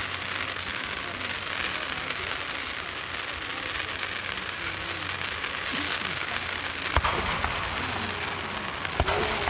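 Aerial fireworks crackling: a dense, continuous hiss of tiny pops from crackling stars, with sharp bangs about seven seconds in and twice near the end.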